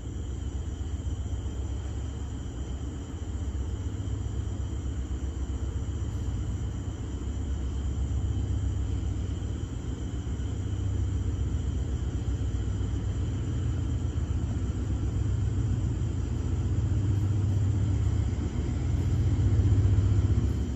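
Low, steady rumble of a diesel train at the station, slowly growing louder toward the end. Insects trill at a steady high pitch over it.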